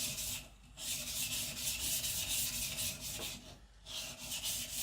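A hand-held kitchen knife blade of very hard AEB-L steel (HRC 66) being ground on a whetstone under heavy pressure: long rasping strokes, with brief breaks about half a second in and again near the end, as the blade is pushed across the stone. The stone cuts only slowly on steel this hard.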